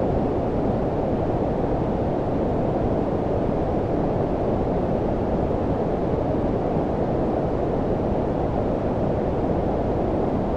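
Steady low-pitched rushing noise with its energy below about 1 kHz and little treble, unchanging throughout: a generated brown noise sleep track.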